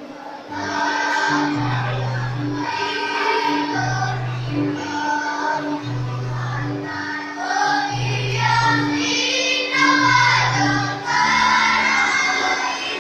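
A choir singing with an accompaniment of held low notes that repeat in an even pattern; the voices come in about half a second in.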